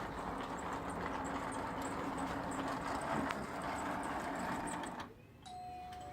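O scale brass Union Pacific Big Boy model locomotive running on track, its electric motor and wheels giving a steady mechanical whir. The sound drops away sharply about five seconds in, and a thin steady tone starts just after.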